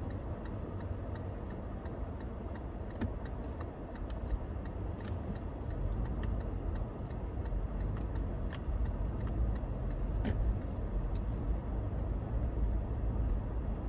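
Car driving along a snowy road, heard from inside the cabin: a steady low rumble of engine and tyres with a regular ticking about two to three times a second.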